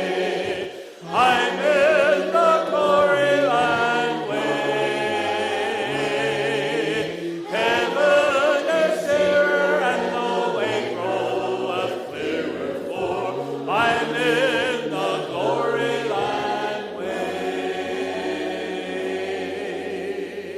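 Church worship music: a choir singing a slow song over sustained chords, ending on a long held chord.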